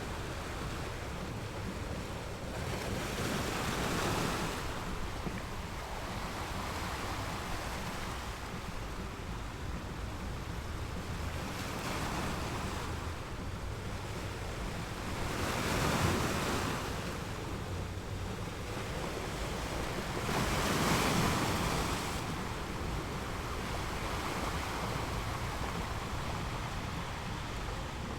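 Ocean waves rolling in and breaking on the shore over a steady wash of surf, with the loudest breakers about 16 and 21 seconds in, and a smaller swell at about 4 seconds.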